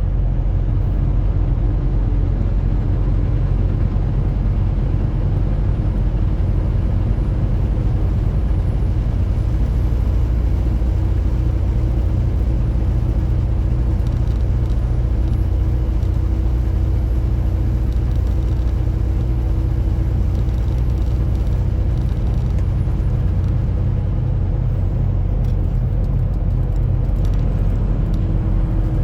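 Semi truck driving at a steady speed: a loud, unbroken low rumble of engine and road noise with a steady hum over it.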